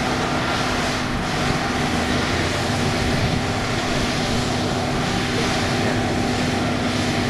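Case 1085B Cruz-Air wheeled excavator's diesel engine running loud and steady, with a constant droning hum.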